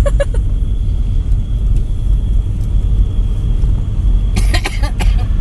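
Steady low rumble of a moving car on the road.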